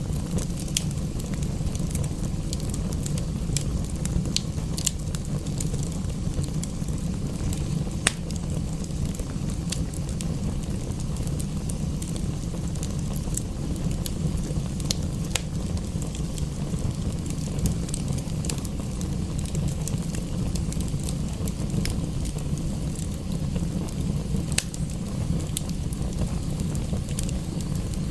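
Wood fire crackling in a fireplace: irregular sharp pops and snaps, several a second at times, over a steady low rumble, with one louder pop about eight seconds in.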